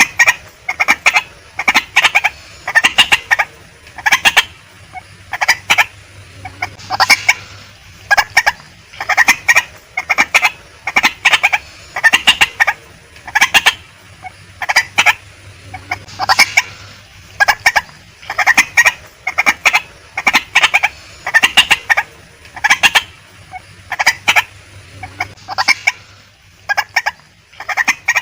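Female white-breasted waterhen calling: clusters of short, clucking notes, about one cluster a second, repeated without a break.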